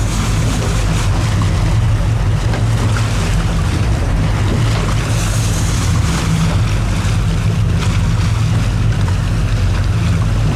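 Fishing boat's engine running with a steady low hum, under wind noise on the microphone and the wash of water against the boat.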